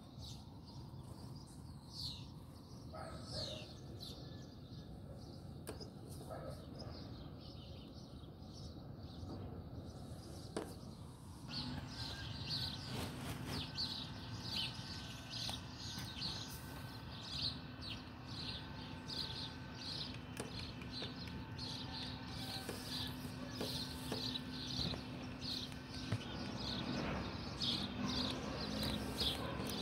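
Small birds chirping, sparse at first and then a quick, repeated chirping song. About a third of the way in, a steady low mechanical hum starts and carries on under the birdsong.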